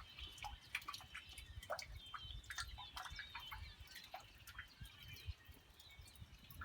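Faint rain dripping in irregular ticks, with birds chirping in the background.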